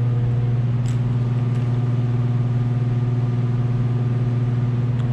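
Steady low machine hum, unchanging throughout, with a faint click about a second in and another near the end.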